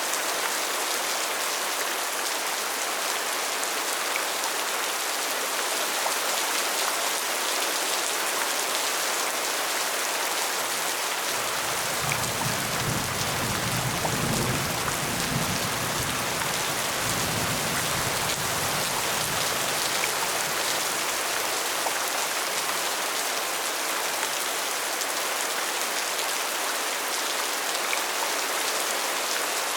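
Steady rain falling, an even hiss. About twelve seconds in, a low rumble rises under it and lasts several seconds before fading.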